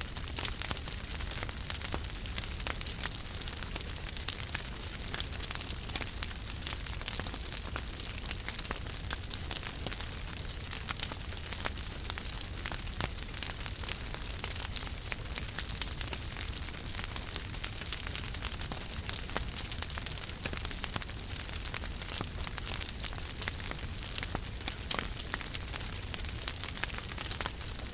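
Wood fire burning in a fireplace: a steady hiss with frequent small crackles and pops, and a low rumble underneath.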